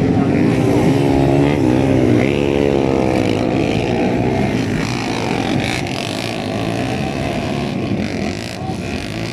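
Motocross bike engines revving, the pitch rising and falling several times in the first three seconds, then settling into a steadier engine drone.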